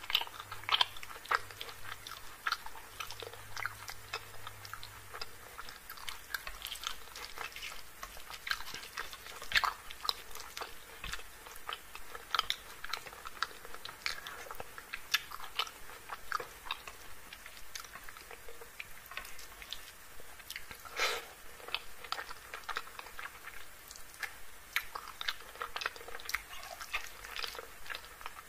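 A person chewing chicken curry and rice eaten by hand, with many short, irregular mouth clicks.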